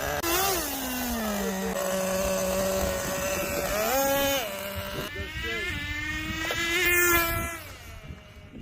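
RC car motor running and revving: a steady whine whose pitch falls just after the start, jumps up briefly about four seconds in, and shifts again a few seconds later.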